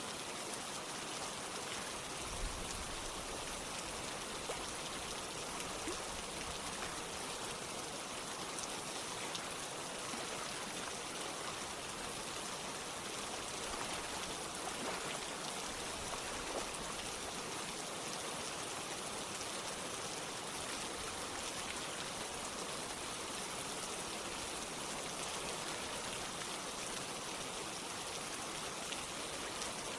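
Rain falling together with running water: a steady, even hiss with scattered small drop ticks.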